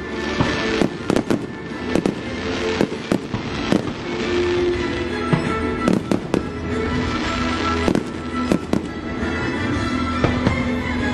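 Fireworks display bursting, many sharp bangs in quick irregular succession, with music playing underneath.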